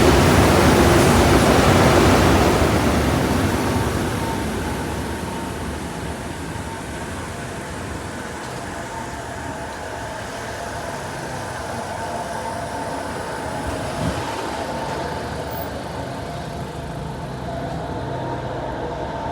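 Ryko SoftGloss XS2 automatic car wash running: a loud rushing of water or air for the first few seconds dies away into a steadier, quieter machinery rumble.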